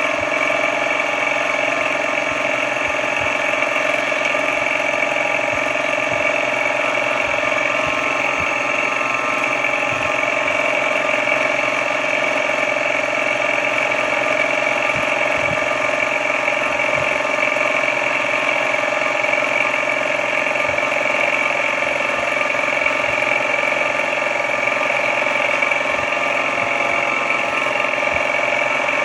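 Benchtop milling-drilling machine running steadily, a constant motor and gear whine that holds the same pitch throughout.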